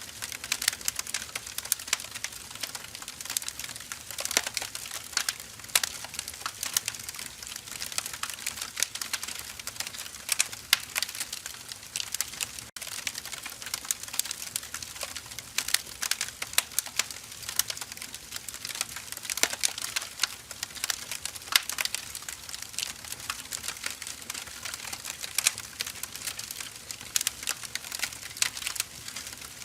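Firewood burning in an open fire, crackling steadily with many sharp, irregular snaps over a soft hiss.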